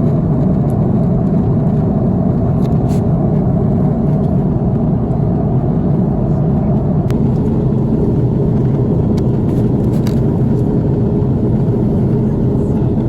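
Steady, low cabin noise inside an Airbus A330-300 airliner, from its engines and air systems, with a few faint clicks.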